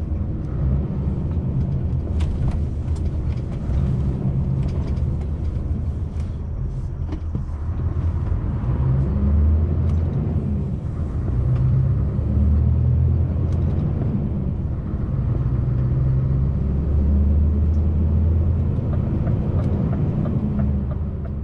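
Scania V8 truck engine running on the road, a steady low drone whose pitch shifts up and down a few times, with road and cab noise.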